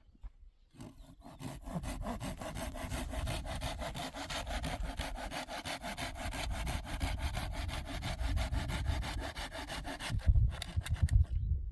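A saw cutting through wood in quick, even strokes. It starts about a second in and stops near the end, followed by a few knocks.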